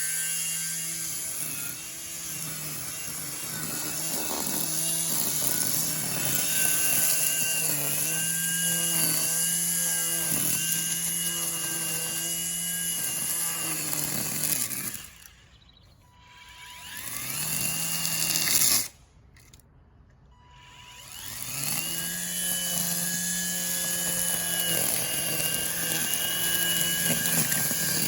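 Ryobi 40-volt battery string trimmer running at speed with a steady whine, its pitch sagging and recovering as it cuts. Twice around the middle it is let off, winds down to near silence, and spins back up with a rising whine.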